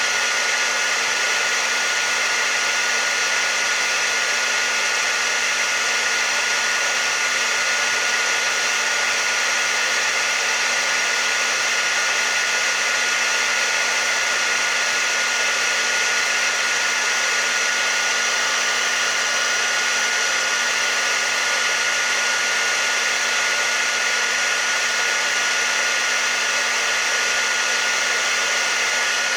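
Hair dryer running steadily: an even rush of blown air with a thin, steady high whine, never changing.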